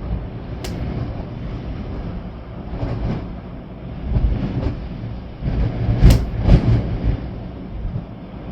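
Storm wind and rain: a steady rushing noise broken by strong gusts that buffet the microphone with low rumbles, the loudest two about six seconds in.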